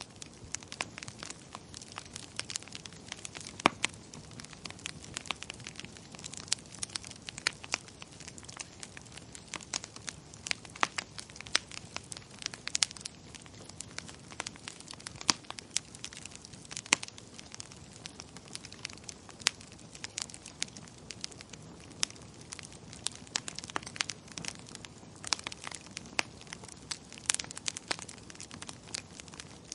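Wood fire crackling in a fireplace: a steady low hiss with frequent irregular sharp pops and snaps.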